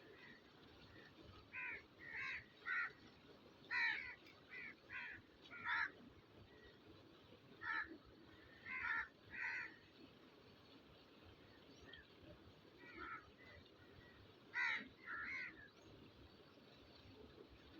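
Birds calling: short calls, often in quick pairs or threes, with pauses of a second or two between groups.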